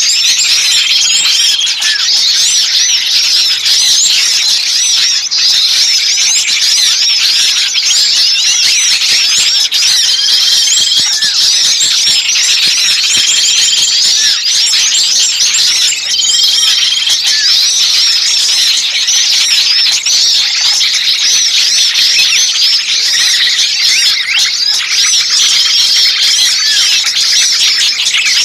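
A loud, dense chorus of many small songbirds chirping and calling agitatedly, fast overlapping chirps with a short level whistle recurring every few seconds. It is a 'burcil ribut' bird-lure recording of noisy, excited small birds, the kind of mobbing and distress chorus used to draw wild birds in.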